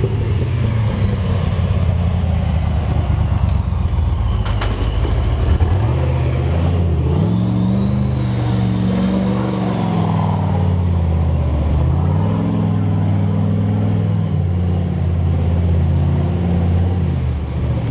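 Toyota FJ45 four-wheel drive's engine under load off-road, revved up and down several times so that its pitch rises and falls.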